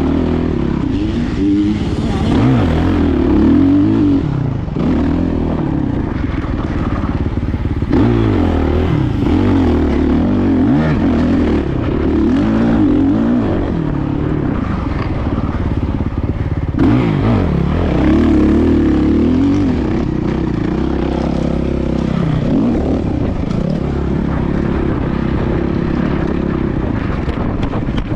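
Motocross dirt bike engine revving hard and easing off again and again as the bike is ridden around a dirt track, with repeated rises and falls in pitch through the gears.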